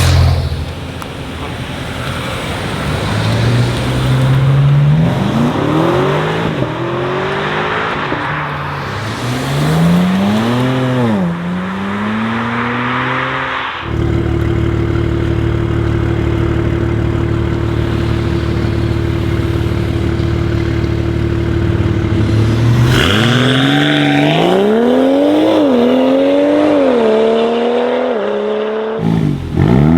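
Modified performance cars accelerating hard away, each engine note climbing and dropping back through quick upshifts. In the middle stretch an engine idles with a steady drone.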